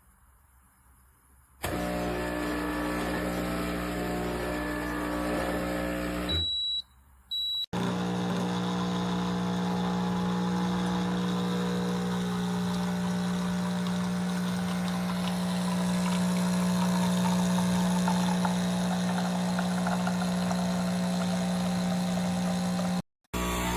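Espresso machine running with a steady mechanical hum, which drops out briefly about six seconds in and again near the end.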